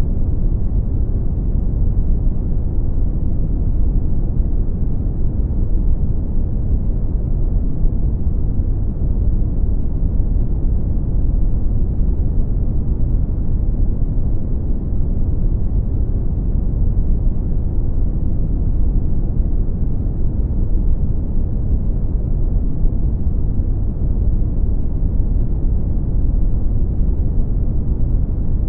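Brown noise: a steady, deep rumbling hiss with most of its weight in the bass and little above the midrange, unchanging throughout.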